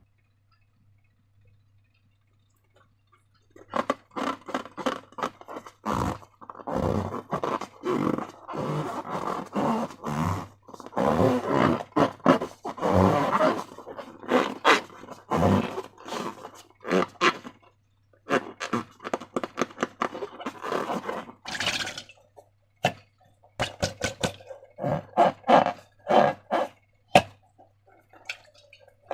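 Slime being handled: a dense run of short, sticky, wet clicks and squelches that starts a few seconds in and comes in clusters with brief pauses.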